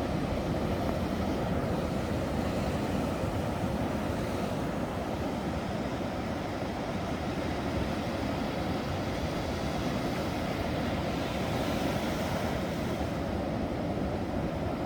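Ocean waves washing on the shore as a steady, deep rushing noise, heavy in the low end like brown noise, with no distinct breaks between waves.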